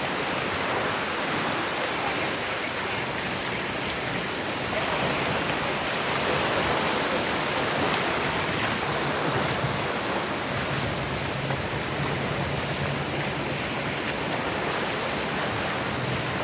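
Ocean surf washing steadily onto a beach, an even rush of water noise with gentle swells. A faint low hum runs underneath from a few seconds in.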